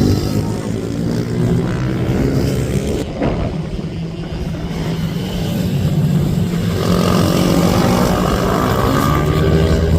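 Racing minibike engines running hard around the track, their pitch rising and falling as the bikes pass. Several engines sound together, growing louder about two-thirds of the way in.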